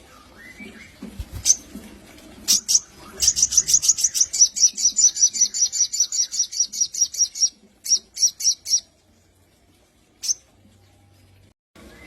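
Sogon (crimson sunbird) singing: a few sharp high chirps, then a long rapid high-pitched trill of about eight or nine notes a second lasting some four seconds, followed by a short burst of notes and a last single chirp.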